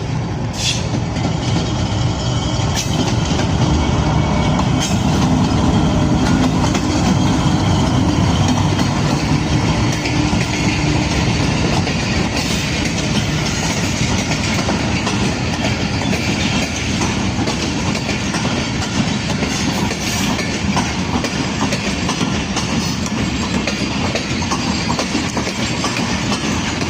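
Karachi Express passenger train rolling past on the track: a steady rumble of locomotive and coaches with the clickety-clack of wheels over rail joints, loudest a few seconds in.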